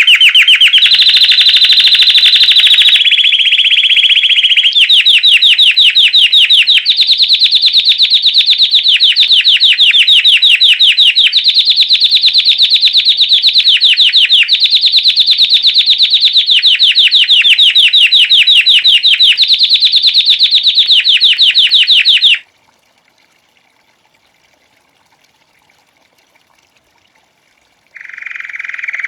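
Belgian canary singing a 'campainha' (bell) song: very fast, even trills, each held about two seconds before switching abruptly to another pitch. The song stops sharply about 22 seconds in and starts again after a pause near the end.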